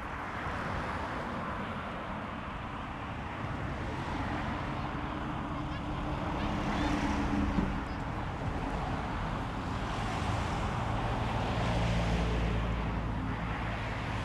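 Strong wind gusting across the microphone, rushing and rumbling in swells, with the steady hum of motor vehicles passing twice, about four seconds in and again near the end.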